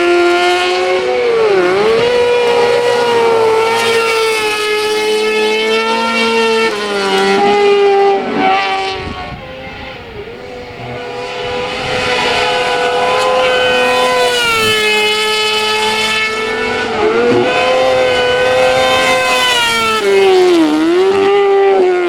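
Hillclimb race car engine running hard at high revs. The revs dip briefly and pick up again about four times. The engine fades somewhat midway, then comes back loud.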